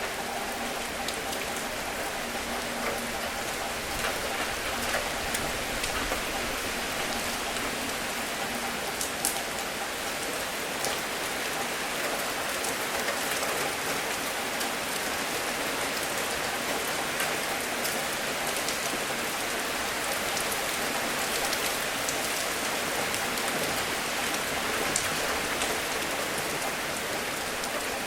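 Steady rain falling, an even hiss scattered with the sharp ticks of individual drops.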